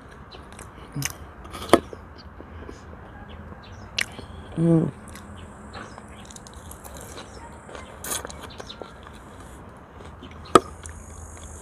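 A person eating quietly, chewing herring and bread, with a few sharp clicks from the fork and mouth and a short hummed "mm" about halfway. A steady high insect drone comes in about four seconds in, stops, and returns near the end.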